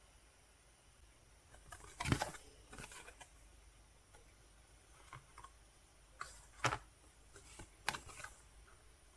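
Album packaging being handled on a table: scattered small taps, clicks and rustles of paper and plastic, with one louder knock about two seconds in.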